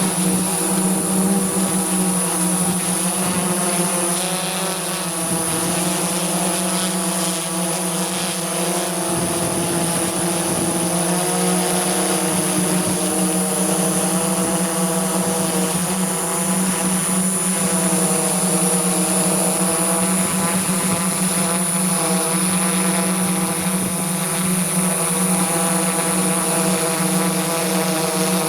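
Quadcopter drone's motors and propellers running steadily close to the microphone: a buzzing hum whose pitch wavers slightly, with a thin high whine over it.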